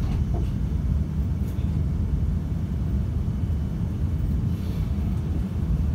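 Steady low rumble in the cabin of a Tohoku Shinkansen train running at low speed, with a couple of faint clicks near the start.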